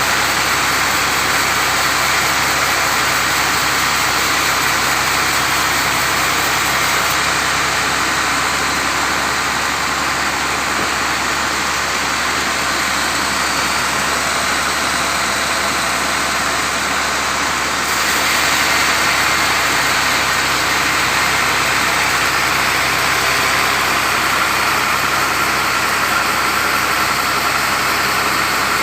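Sawmill saw running steadily as mango wood is cut, a dense, even noise that grows slightly louder about 18 seconds in.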